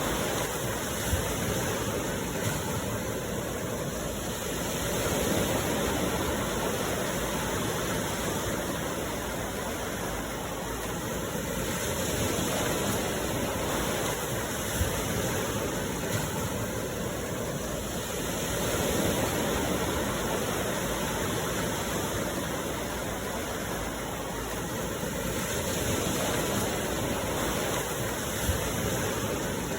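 Sea waves washing onto a shore in a steady rush. It swells and eases about every six to seven seconds as each wave comes in.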